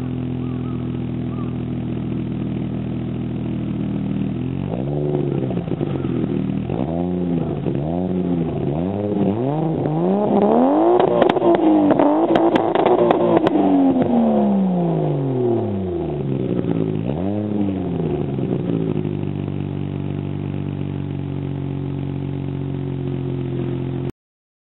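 Toyota Mark II JZX90 Tourer V's twin-turbo 1JZ-GTE straight-six heard through its exhaust. It idles, then is blipped in a series of quick revs climbing higher, held at the top for a few seconds with crackling pops, and settles back to idle. The sound stops abruptly near the end.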